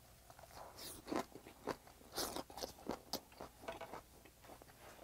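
Close-up eating sounds of a person biting into a boiled-cabbage wrap of stir-fried squid and chewing it. The sound is a run of irregular, wet crunching and smacking, louder from about a second in.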